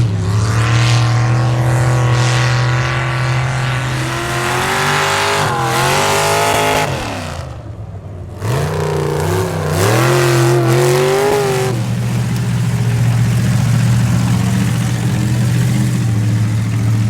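A square-body Chevy mud truck's engine running hard at high revs, its pitch swooping up and down as the throttle is worked. About seven seconds in it drops off sharply for a moment, then climbs back and holds high and steady.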